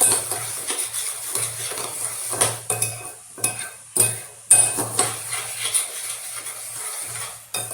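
A spoon stirring and scraping against a bowl in irregular strokes, with light clinks, mixing a thick paste of instant coffee, sugar and water.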